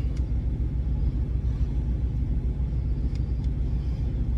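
Steady low rumble of an idling truck engine, with a few faint light clicks.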